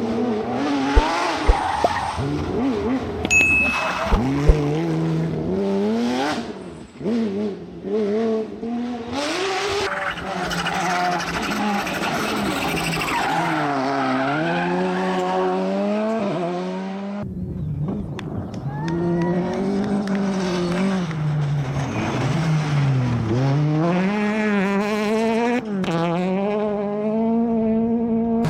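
Rally car engines revving hard, the pitch climbing and dropping again and again through gear changes and lifts, with tyre and gravel noise underneath. A few sharp knocks come in the first five seconds, and about 17 seconds in the sound cuts abruptly to another car at full throttle.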